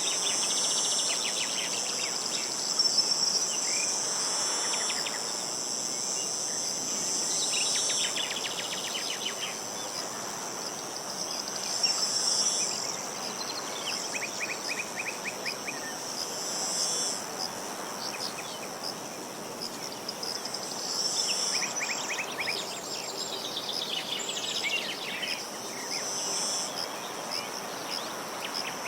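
Insects chirring steadily in a high continuous buzz. Short trilled bird song phrases come every few seconds, over a light background hiss.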